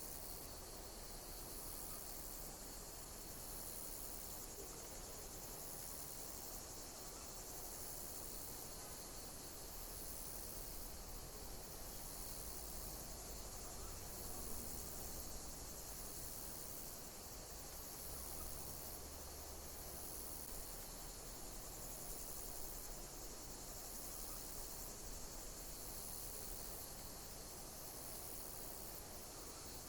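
Insects chirping: a high chirp repeating at a regular pace over a steady, high-pitched insect hiss.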